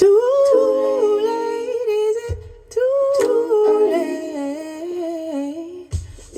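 A female voice hums a wordless melody with layered harmony voices, in two long phrases. A soft low thump falls between them and another near the end. It is a stretch of a recorded soul/jazz song heard over hi-fi loudspeakers.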